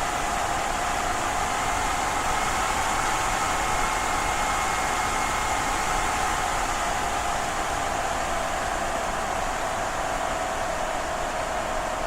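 Wind blowing steadily with a faint whistling tone in it that sags slightly in pitch.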